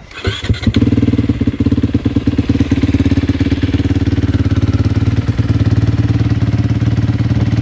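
2020 Honda CRF250R single-cylinder four-stroke engine started cold: it cranks briefly and catches under a second in, then runs at a steady idle.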